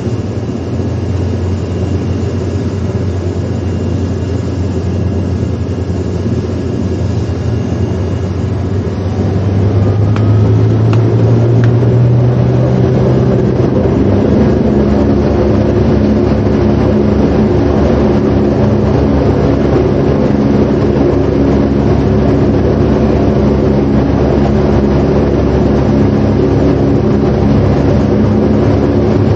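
A loud, steady engine-like drone that grows louder and fuller about nine seconds in, then holds steady.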